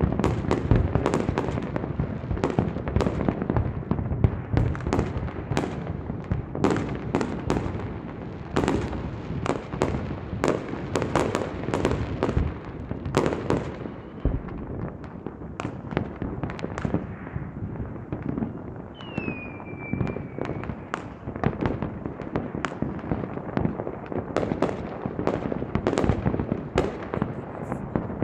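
Fireworks display: many sharp bangs, several a second, over a continuous rumble of distant explosions, heaviest at the start. A short falling whistle comes about two-thirds of the way through.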